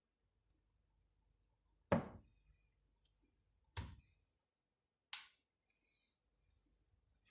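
Three sharp knocks, about two, four and five seconds in, the first the loudest, with a few faint clicks between: hard taps of a tool on microwave fan-motor parts.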